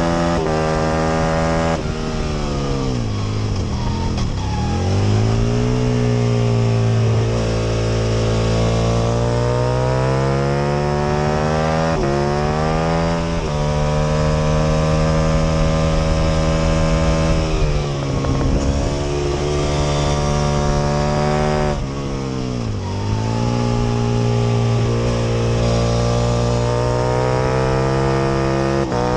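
Aprilia RSV Mille R's V-twin engine at racing revs, heard onboard, held hard through the gears. Its pitch steps at gear changes and dips sharply on braking and downshifts three times, about two, eighteen and twenty-two seconds in, before climbing again as the bike drives out of the corners.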